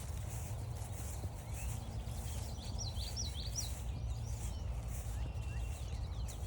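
Footsteps on a forest trail over a steady low rumble, with a songbird giving a quick run of about six high chirps a little past halfway.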